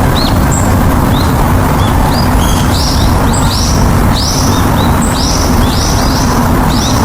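Birds chirping in short, repeated high calls, more often and louder from a few seconds in, over a loud steady low rumble.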